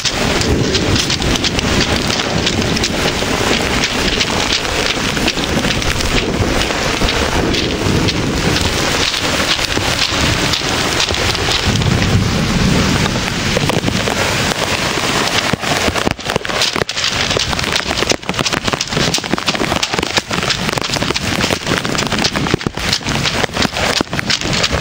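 Heavy summer downpour: a loud, dense, steady hiss of rain, with a low rumble of thunder swelling for a moment about twelve seconds in.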